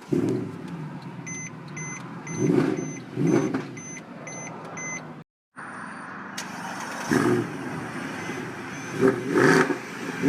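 Mercedes-Benz C63 AMG V8 running and being revved in several short blips. A high beeping chime repeats about twice a second through the first half, and the sound cuts out briefly about five seconds in before the engine resumes.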